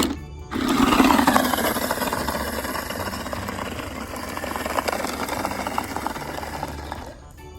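Small electric motor of a toy amphibious RC truck running, a whirring, rattly sound whose pitch wavers and which is loudest at first and slowly fades.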